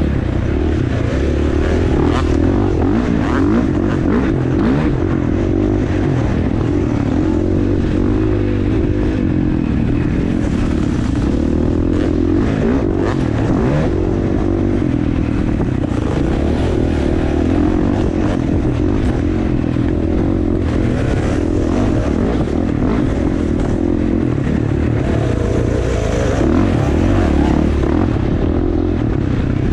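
Dirt bike engine running hard during riding, its pitch rising and falling continuously as the throttle is worked, with clattering and a steady low rumble underneath.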